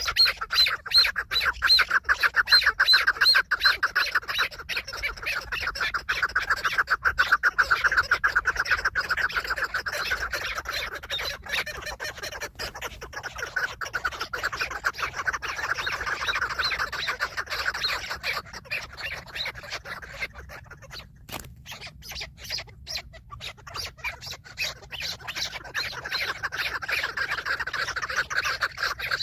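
Chukar partridges calling: a rapid, continuous run of clucking notes that weakens for a few seconds past the middle and builds again near the end.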